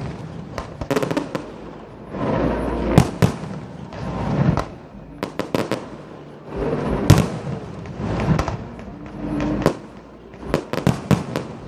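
Aerial fireworks display: repeated deep booms of shells bursting, each rolling on for about a second, mixed with quick runs of sharp crackling pops, most densely about five seconds in and again near the end.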